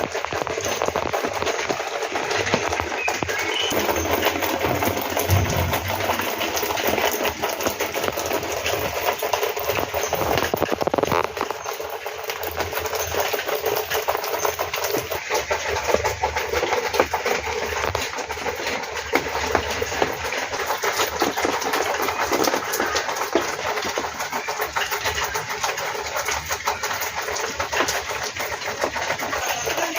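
Hero Honda Splendor's single-cylinder four-stroke motorcycle engine running steadily, with a fast, even ticking texture.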